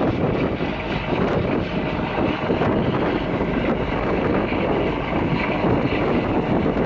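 Wind buffeting the microphone aboard a moving ferry, a steady rough rush mixed with the noise of the boat under way.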